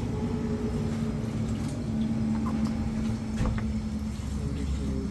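A steady low engine hum with a held even tone and a rumble underneath, with a few faint clicks.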